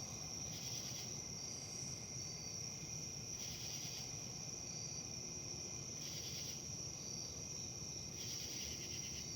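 Insects, crickets or similar, trilling in one steady high-pitched drone, with louder swells of chirping every second or few, over a low, even wind rumble.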